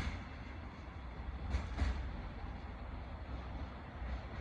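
Container freight wagons rolling past with a steady rumble, with two sharp knocks about a second and a half in.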